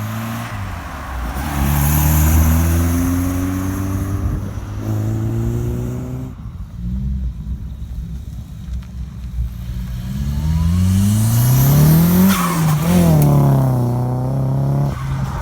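Car engine accelerating, its pitch climbing in several runs with short drops between them. It is loudest about twelve seconds in.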